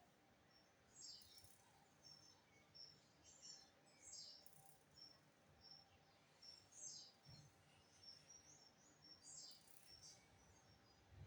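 Faint, scattered bird chirps: short high notes and brief clusters of notes at irregular intervals, over a faint low hum.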